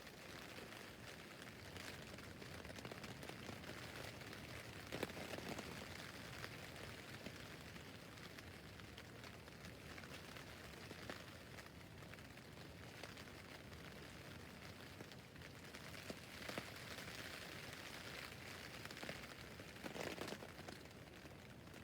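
Rain pattering on a tent's fabric roof: a steady patter of drops, with a few louder drips and taps now and then.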